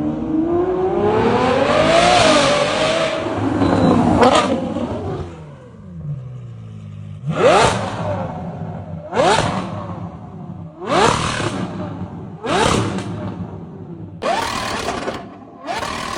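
A car's V12 engine accelerating, its note climbing for about four seconds before dropping off, then revved hard several times in quick succession, each rev rising sharply and falling back.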